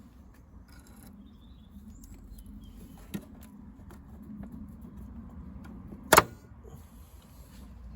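Parts being worked loose by hand in a car's engine bay: quiet handling and faint taps, a small click about three seconds in, and one sharp loud snap about six seconds in, like a plastic clip or cover popping free, over a steady low rumble.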